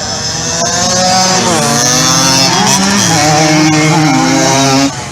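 Small-displacement pit bike and 50cc motorcycle engines revving, more than one at different pitches, rising and falling in pitch. The sound drops away suddenly near the end.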